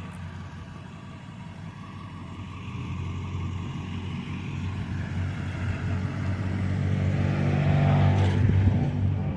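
A tow truck's engine running, growing steadily louder over several seconds.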